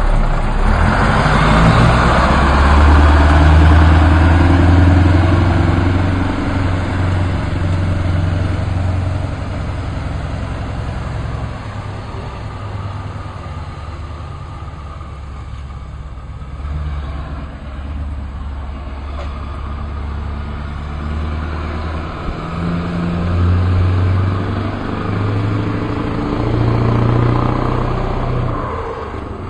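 Scania 144 530 V8 diesel truck engine running. It is loudest in the first several seconds, eases off through the middle and rises again near the end.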